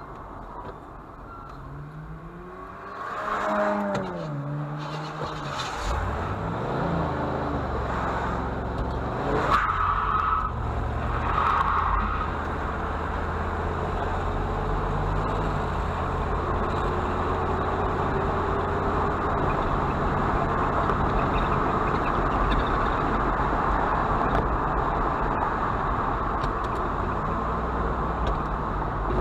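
A motor vehicle's engine rising and falling in pitch a few seconds in, then picking up speed and running steadily.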